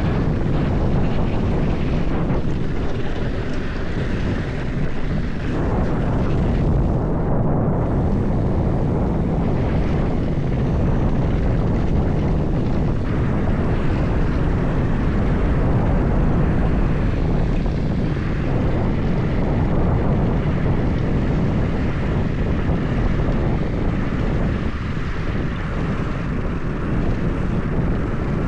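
Mountain bike descending at speed: a steady rush of wind over the ride-mounted microphone mixed with the rumble of the tyres and bike on the trail.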